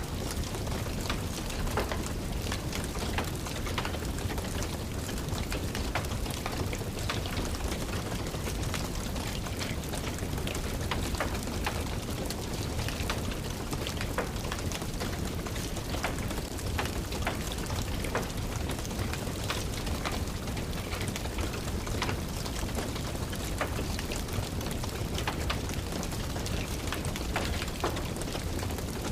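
Steady rain falling, mixed with the frequent sharp crackles and pops of a wood fire burning in a fireplace.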